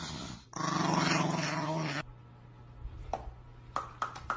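A dog growling, broken briefly near the start, which stops abruptly about two seconds in. A few light clicks or knocks follow near the end.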